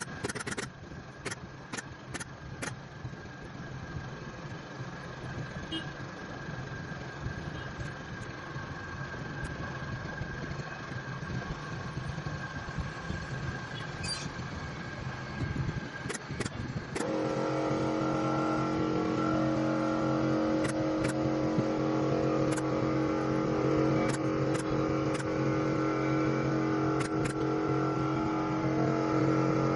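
Workshop machine noise: a few sharp clicks in the first three seconds, then a motor starts about 17 seconds in and runs with a steady hum.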